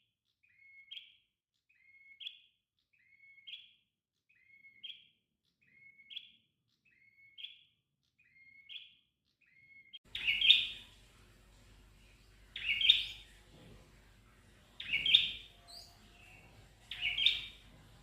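A prenjak (red-headed prenjak) singing a short repeated phrase, a low note followed by a quick upward note, about every second and a half. About ten seconds in the song becomes louder, with phrases about every two seconds over a faint background hiss.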